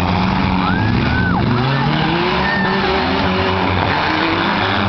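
Several four-cylinder demolition derby cars revving, their engines rising and falling in pitch over a steady blend of engine noise.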